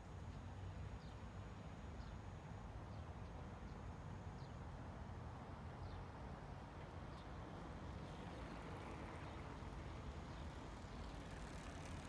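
Steady low ambient rumble with faint, short high chirps every second or so; a hiss grows louder near the end.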